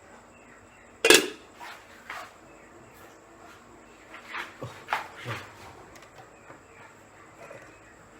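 Kitchen clatter: a sharp, loud clank about a second in, then a few fainter knocks, as cookware and the oil bottle are handled to pour oil into a frying pan.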